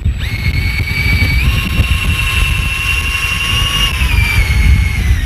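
Electric fishing reel motor whining as it winds in line on a hooked cuttlefish. Its pitch steps up about a second and a half in and drops back down around four seconds, over a heavy low rumble of wind and boat.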